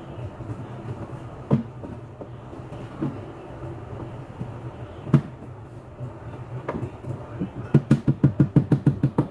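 A steady low hum with a couple of single knocks, then a quick run of knocks, about eight a second, near the end.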